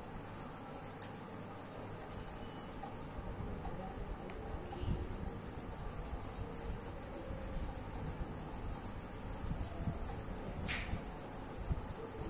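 Colouring strokes on paper: a pencil or crayon tip rubbing back and forth in rapid, even shading strokes, with a brief tap about eleven seconds in.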